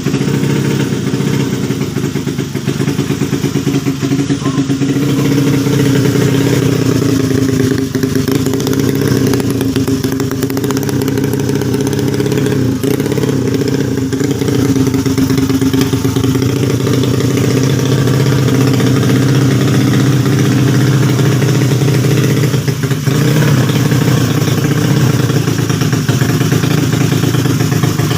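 Honda Beat scooter's engine, bored up to 130cc for road racing, running steadily at a fast idle.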